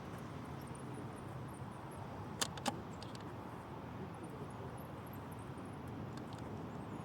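A pickup truck driving: steady low engine and road noise, with two sharp clicks close together about two and a half seconds in.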